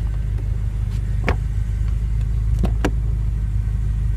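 Car door soft-close latch pulling the door shut, heard as a few sharp mechanical clicks, two in quick succession near the middle. A steady low rumble sits underneath.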